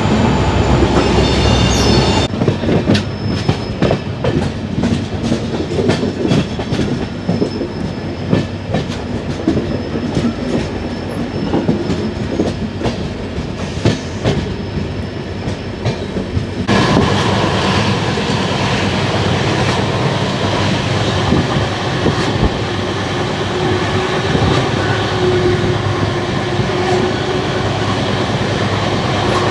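Passenger express train running out of a station and gathering speed, heard from an open coach door: steady wheel-and-rail rumble with rushing air and many quick clacks of the wheels over rail joints and points. The sound changes abruptly twice, about two seconds in and again a little past halfway.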